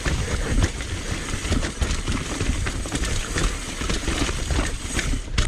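Mountain bike rattling and clattering over a rocky trail: irregular knocks from wheels and frame striking rocks over a steady low rumble, with a sharp knock near the end.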